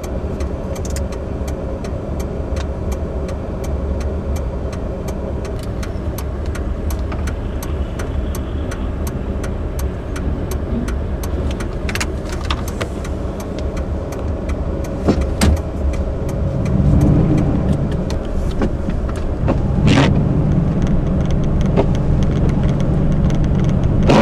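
Car driving on a snow- and ice-covered road: a steady low rumble of engine and tyres, with a rapid run of small ticks throughout. The rumble grows louder from about two-thirds of the way in.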